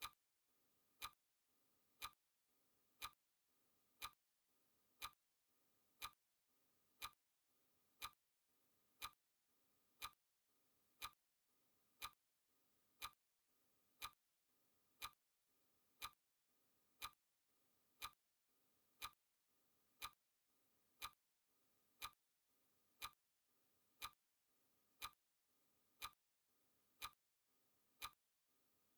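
Faint clock ticking sound effect of a countdown timer, a single sharp tick once every second at a steady pace.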